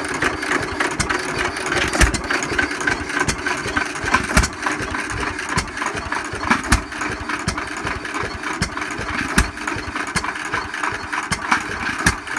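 Vintage Bamford stationary engine running slowly, with sharp firing beats at uneven intervals, the loudest about every two and a half seconds and lighter ones between, over a steady mechanical clatter.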